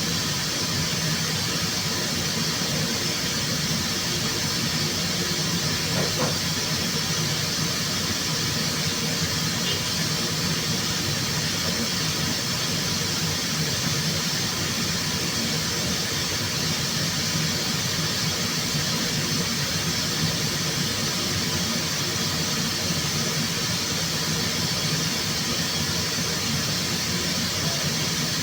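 Steady rushing hiss of air with a faint low hum beneath it, from the spray and ventilation equipment of a car-paint workshop.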